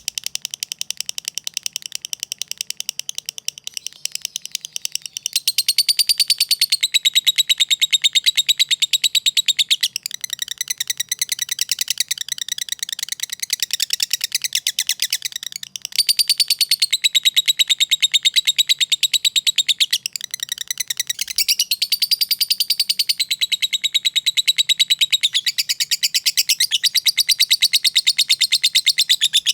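Lovebird singing a long, fast, almost unbroken chatter of rapid high ticking notes, the 'ngetik' and 'ngekek' song style, with only a few brief dips.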